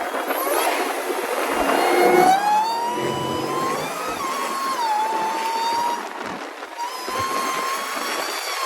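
Supercharged 5.7-litre Hemi V8 of a Dodge Charger R/T under way, its supercharger whining over the engine and road noise. The whine climbs in pitch about two seconds in, holds fairly steady with a brief dip, drops away around six seconds in, then comes back.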